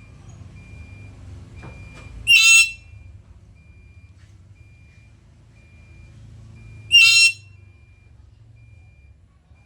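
Black-capped lory giving two loud, harsh screeches about four and a half seconds apart, each under half a second long.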